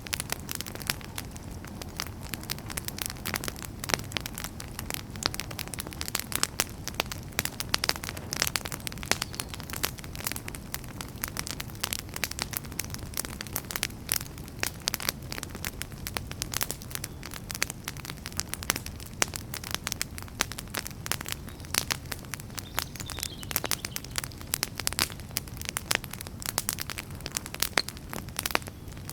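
Wood fire burning in a fireplace: dense, irregular crackling and popping of burning logs over a steady low rumble of the flames.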